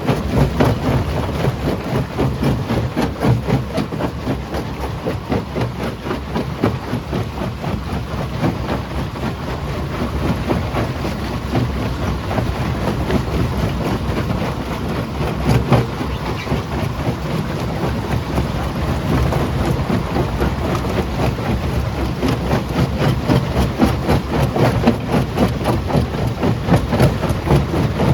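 Quarry jaw crusher crushing rock: a steady heavy rumble with a constant irregular clatter and knocking of stones.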